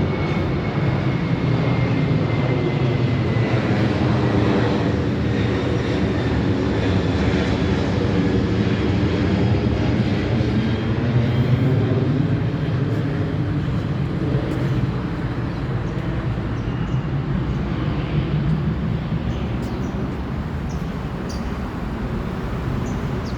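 Jet airliner passing low overhead: loud engine noise with a thin whine that slowly falls in pitch, easing off near the end.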